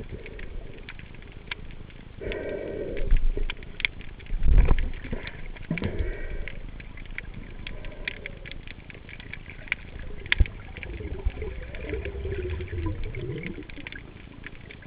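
Underwater sound picked up through a camera housing: a steady hiss scattered with sharp clicks and crackles, and a few dull thumps and water swishes, loudest about two and four and a half seconds in.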